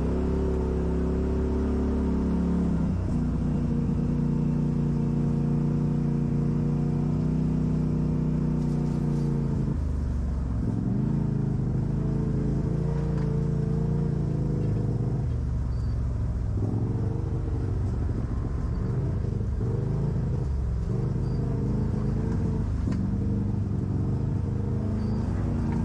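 Off-road vehicle's engine running under load, its pitch holding steady for stretches, then rising and falling repeatedly in the second half as the throttle is worked.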